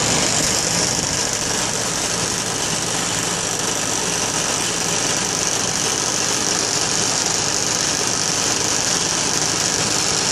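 Farm tractor engine running steadily under way, heard from the tractor's seat.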